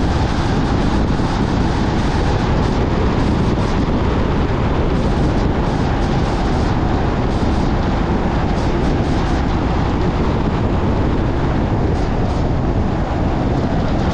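Car driving on the road: steady, loud tyre and wind noise with a dense low rumble and no change throughout.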